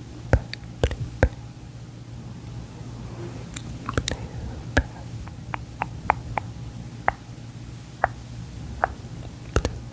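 Close-up wet mouth clicks, sharp and irregular, about two a second, over a low steady hum.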